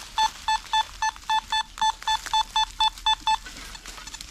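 Metal detector beeping: a rapid, even series of about fourteen short, identical mid-pitched beeps, about four a second, that stops about three and a half seconds in.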